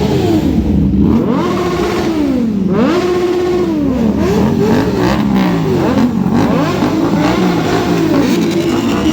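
BMW S1000RR's inline-four engine through an Akrapovic GP exhaust, revving up and down over and over, its pitch climbing and dropping every second or two with short steady stretches between.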